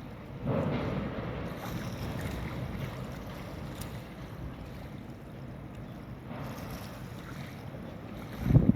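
Wind buffeting the microphone over a steady low rumble, gusting up about half a second in and hitting hard near the end.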